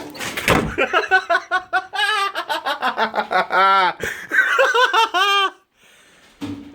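Hearty human laughter in rapid, repeated pulses that stops about five and a half seconds in, after a short knock near the start.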